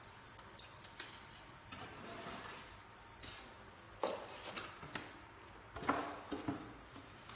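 A string of irregular clicks and knocks, with a short rustle about two seconds in.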